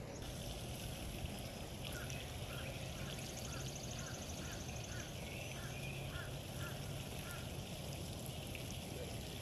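Outdoor ambience with a steady hiss-like background; a bird repeats a short call about two to three times a second for several seconds, while a fast, high trill sounds briefly in the middle.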